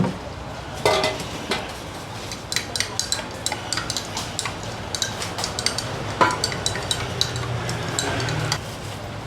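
Thai milk tea being stirred and mixed by hand: a spoon clinking against the cup, with many quick, light clinks over a steady low hum.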